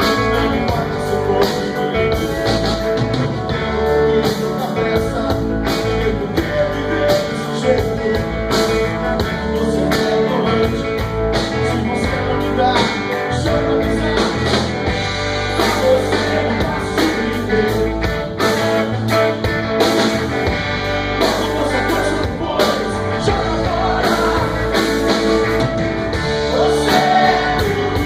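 Rock band playing, with guitar and a steady drum beat and some singing.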